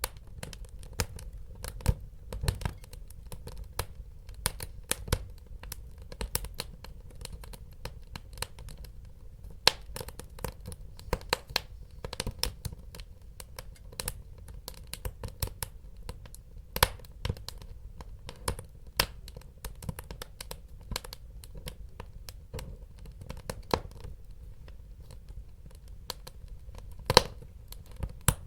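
Wood fire crackling: irregular sharp snaps and pops over a steady low rumble of burning.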